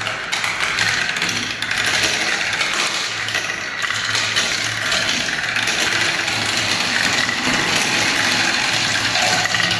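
Many marbles rolling and clattering down plastic spiral marble-run tracks: a continuous, dense rattle with a low hum underneath.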